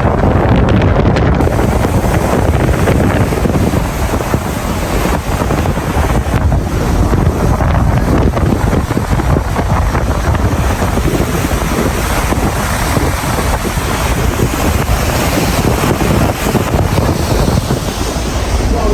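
Gale-force wind, about Force 8, buffeting the microphone on a ship's deck, with the rush of rough seas and waves against the hull; loud and steady throughout.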